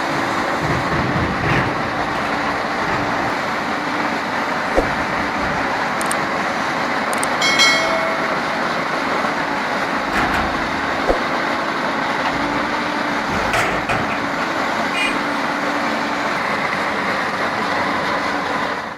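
Heavy diesel machinery running steadily, with scattered clanks and a brief high-pitched tone about seven and a half seconds in.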